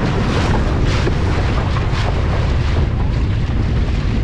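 Heavy wind buffeting the microphone on a moving longtail boat, a loud steady rumble with the boat's rush of water and engine underneath.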